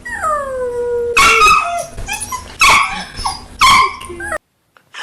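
A dog howling and yowling back in drawn-out, talking-like calls. First comes one long call that falls in pitch, then three loud yowls about a second apart, and the sound cuts off abruptly a little before the end.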